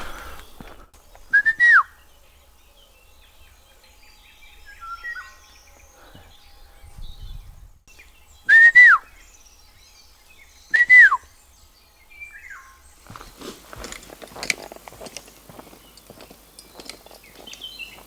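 A bird calling in woodland: three loud, clear calls, each rising a little and then sliding down, with softer chirps between them. In the last few seconds footsteps and rustling on a dirt forest path join in.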